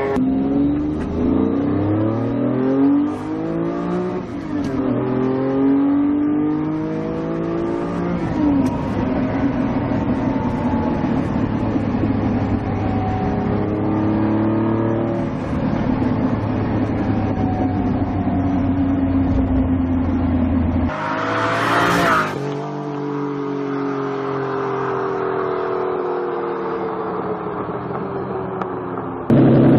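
Lamborghini Diablo's V12 engine under acceleration, its pitch climbing and dropping again and again as it revs through the gears. About three-quarters of the way through comes a brief loud rushing noise.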